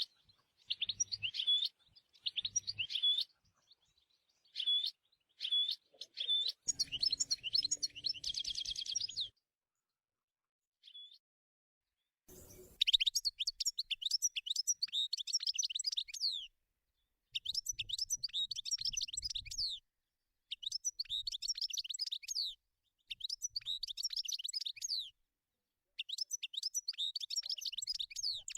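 European goldfinch singing: fast, liquid twittering of rapid high notes. Short phrases come first, then after a pause of about three seconds the song returns in longer bursts of two to three seconds, repeating every few seconds.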